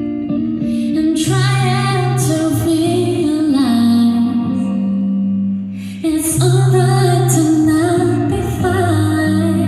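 Female voice singing a soft pop ballad over instrumental backing with steady bass notes. There is a short break in the vocal about six seconds in.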